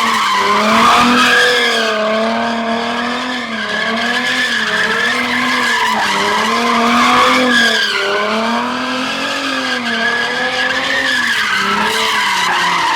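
A car doing donuts, with its engine held at high revs that rise and fall in waves every second or two while the spinning tires squeal without a break.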